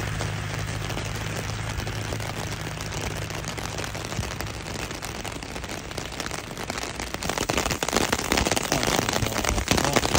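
Rain falling on a clear plastic umbrella overhead, a dense crackle of drops that grows heavier and louder about seven seconds in. A passing vehicle's low hum fades away over the first few seconds.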